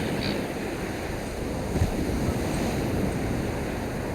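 Steady wind and sea surf, a rushing noise without a clear pitch, with wind buffeting the microphone.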